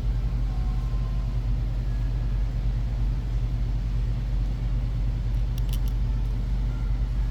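Steady low background hum, with a few brief light clicks of small parts being handled about five and a half seconds in and again near the end.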